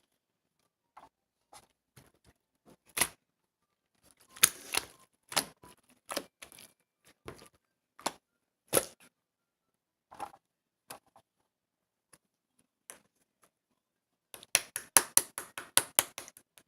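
Clear slime being worked by hand: scattered sharp clicks and pops, with a quick run of them near the end.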